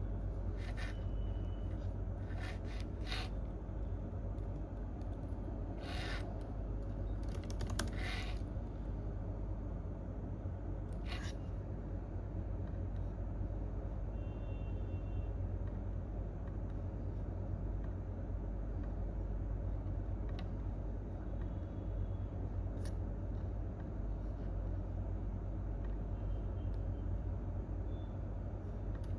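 Quiet office room tone: a steady low hum with a few scattered clicks and short scrapes, most of them in the first dozen seconds, and one more click about three-quarters of the way through.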